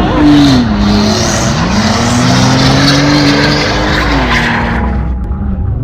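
Car engine revving up and down while the tyres squeal and skid in a burnout or donut. About five seconds in the tyre noise dies away and only the engine keeps running.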